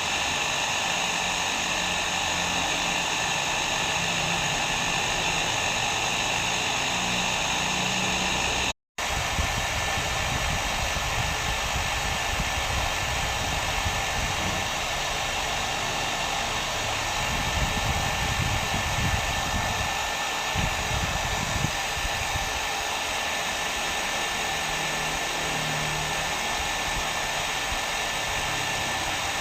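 Hair dryer blowing steadily, a continuous rushing hiss with a high whine. About nine seconds in it cuts out for a split second and comes back with a slightly duller tone.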